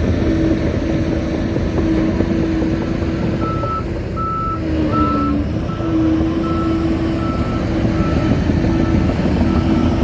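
Shantui bulldozer's diesel engine running steadily under load, with its reverse alarm starting to beep about twice a second a few seconds in, the sign that the dozer is backing up.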